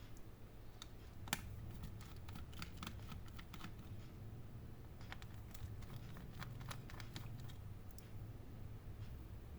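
Faint, irregular light clicks and taps of small tools and parts being handled on an opened laptop as its cooling fan is taken out, with one sharper click just over a second in.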